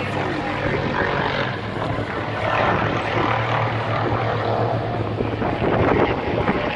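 Propeller aircraft engine running with a steady low drone, a little louder toward the end.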